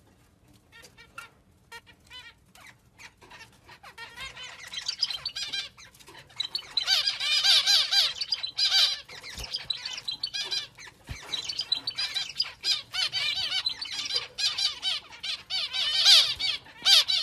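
Pet parrot squawking: a few faint calls at first, then from about four seconds in a long run of loud, harsh, wavering squawks.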